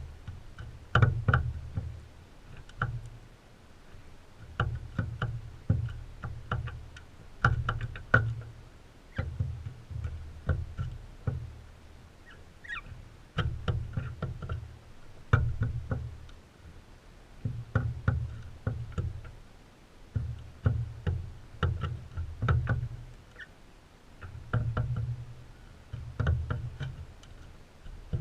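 Crimson rosellas feeding close to the camera: irregular pecking, seed-cracking clicks and knocks, with dull thumps. One short high call about halfway through.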